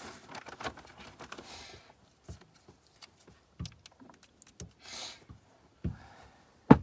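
Scattered small clicks, taps and rustles of things being handled in a car cabin, with a short rustle about five seconds in and one sharp click near the end.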